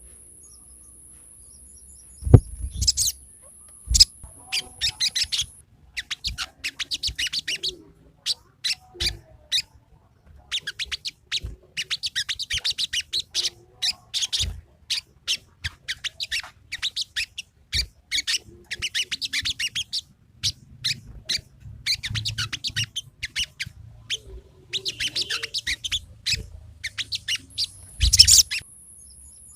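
Sogon songbird singing in fast, chattering runs of sharp, high chirps, coming in bursts with short pauses; a few loud knocks break in, near the start and near the end.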